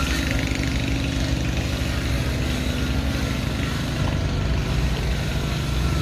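A large engine running steadily at constant speed.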